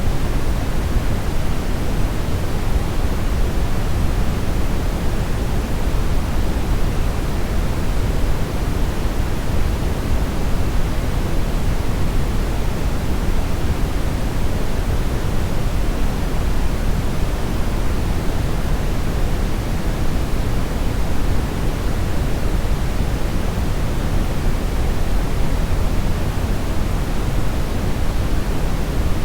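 Steady brownish noise: an even hiss-rumble, heaviest in the bass and thinning toward the treble, with no changes or events.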